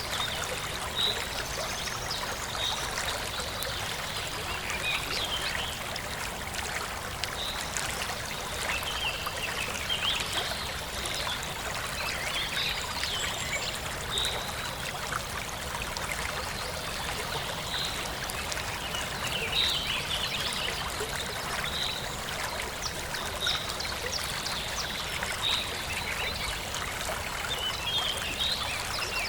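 Forest stream flowing and trickling steadily, with a bird repeating a short high chirp about every two seconds and other birds chirping now and then.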